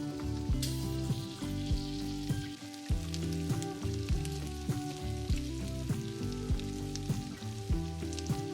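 Background music with a steady beat, over the sizzle of food frying in a pan.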